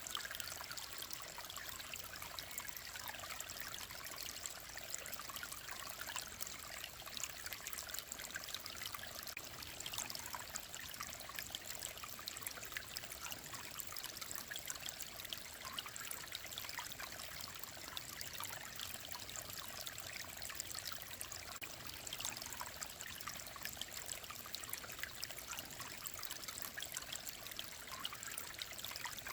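Mountain stream of clear water running and trickling over rocks, a steady, even babble with fine splashes.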